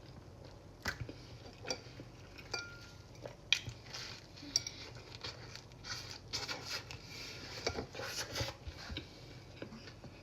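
Scattered clinks and knocks of tableware handled during a meal, irregular and sharp, with one short ringing note about two and a half seconds in.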